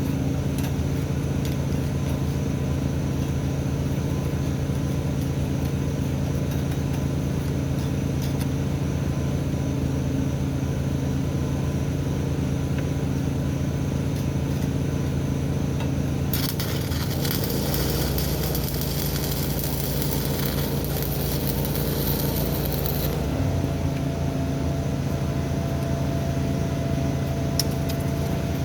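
Steady low hum throughout, with about seven seconds of dense crackling hiss from a stick-welding arc beginning a little past halfway.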